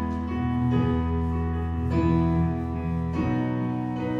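Worship band playing an instrumental lead-in: keyboard and guitar chords over bass, the chord changing about every second.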